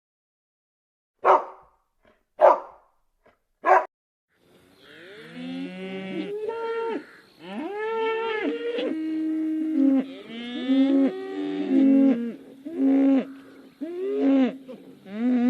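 Three short dog barks about a second apart, then from about four seconds in several cattle mooing, with long overlapping calls that rise and bend in pitch.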